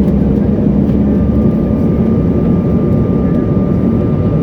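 Steady cabin noise inside a CRJ900 regional jet in flight: the rear-mounted CF34 turbofan engines and airflow, with a steady hum and, from about a second in, a faint thin high tone.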